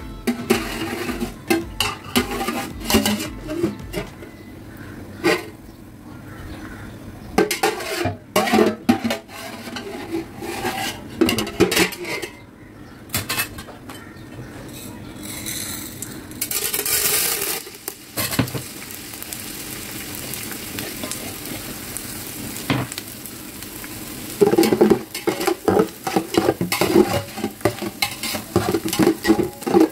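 Pieces of edible gum (gond) frying in hot ghee, sizzling, while a perforated metal spoon scrapes and clinks against the metal pot as they are stirred and puff up. One louder hiss comes about halfway through, and the scraping is busiest near the end.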